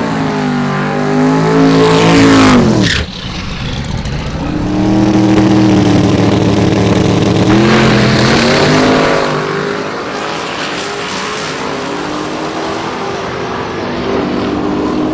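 Drag race car engine revving up and dropping off sharply about three seconds in, then held at a steady high rev for several seconds before settling to a lower, steady run.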